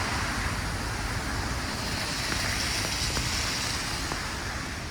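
Steady hiss of pouring rain, with a few faint ticks.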